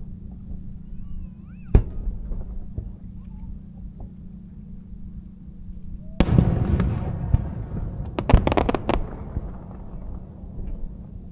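Aerial fireworks going off: one sharp bang about two seconds in, then a big burst about six seconds in, followed by a quick run of sharp cracks and a fading rumble.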